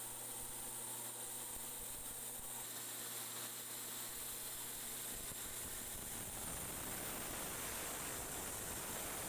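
Mini rice huller driven by an electric motor, running steadily: a constant hum under a steady hissing rush. About five or six seconds in, a rougher, deeper rumble joins the sound.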